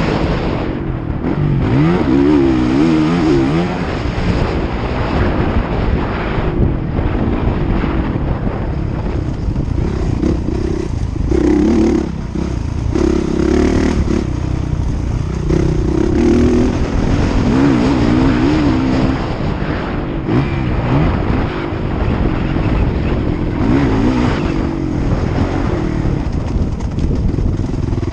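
Motocross bikes running on the track, their engines revving up and down, with the pitch wavering repeatedly.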